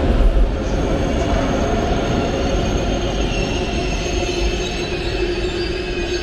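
Berlin S-Bahn electric train running along the platform, its wheels squealing with a steady high-pitched tone over the rumble. A lower hum grows louder in the second half.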